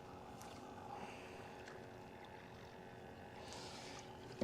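Faint, steady background aboard a small fishing boat on open water: a low, even hum with light hiss and no distinct events.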